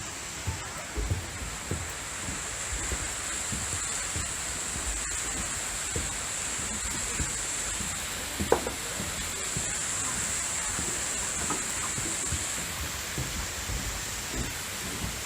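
Steady rushing hiss of a waterfall, with scattered low bumps from wind or handling on the microphone.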